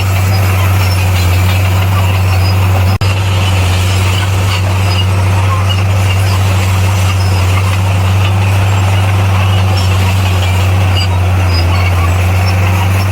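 Bulldozer diesel engine running at a steady speed, a constant low drone with no revving. It is broken only by a split-second dropout about three seconds in.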